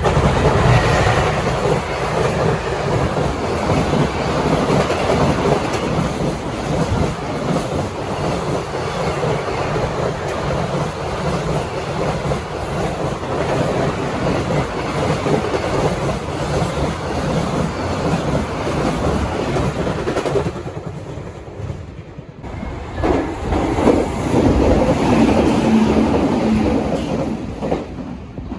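Train passing over jointed rail, its wheels clicking over the rail joints in a steady clickety-clack. The sound drops away about 20 seconds in, and a second train pass starts a few seconds later.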